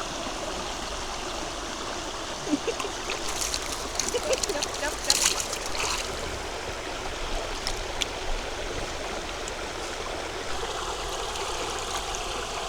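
River water running steadily, with a few short splashes a few seconds in.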